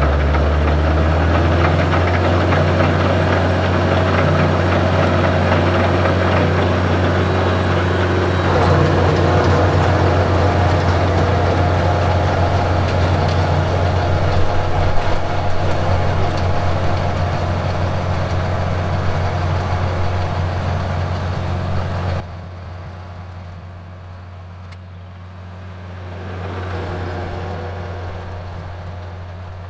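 Kubota L4701 tractor's diesel engine running steadily with a deep, even hum while driving the rear rototiller. About two-thirds of the way through it abruptly becomes quieter and more distant, then swells again near the end.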